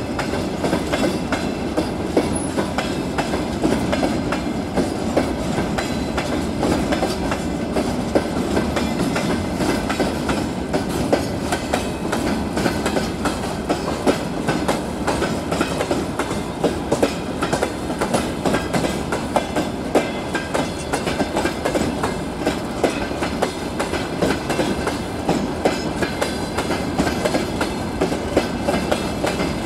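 Freight train of open gondola wagons rolling past at steady speed. Its wheels and bogies clatter over the rail joints in a continuous run of clicks and knocks over a rumble.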